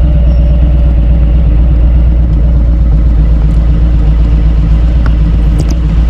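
Motorcycle engine running steadily under way, a loud continuous low rumble.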